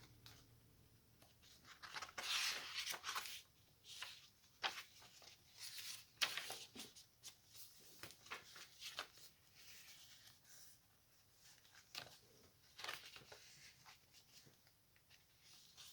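Paper pages of a handmade junk journal being turned and handled: soft, intermittent rustles and light taps of paper, card and lace, in a few bunches with short pauses between.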